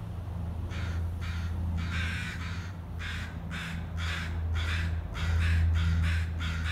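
A bird cawing harshly in a quick series, about two caws a second, starting under a second in. A steady low hum runs underneath.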